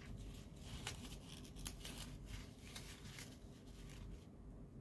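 Folded paper origami units rustling and crinkling faintly as they are handled and slotted together, with scattered small ticks and one sharper tick a little under two seconds in.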